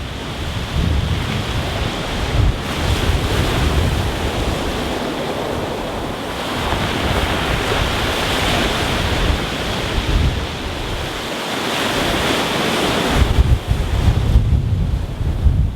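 Rough sea breaking on a pebble beach: waves surging and washing over the stones, swelling and easing over several seconds. Wind buffets the microphone with a low rumble at times, most of all near the end.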